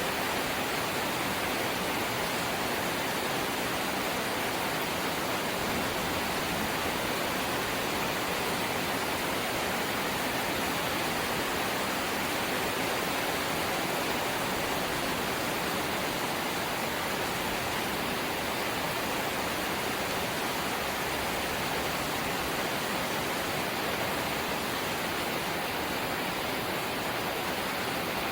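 Rain falling steadily on a corrugated zinc sheet roof, an even, unbroken hiss.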